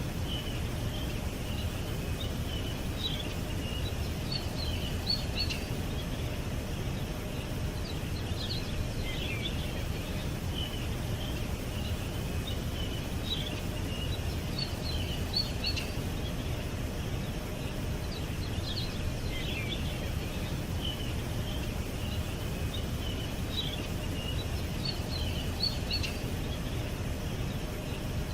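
Small birds chirping and twittering in short high clusters every few seconds, over a steady low outdoor rumble.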